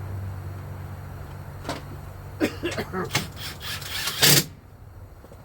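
Clicks and knocks of tools and headlight fasteners being handled, building to a short loud burst near the end. A steady low hum underneath stops just after it.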